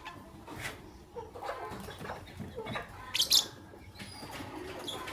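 Lovebirds chirping in a run of short, quick calls, with one louder, harsher burst a little past three seconds in.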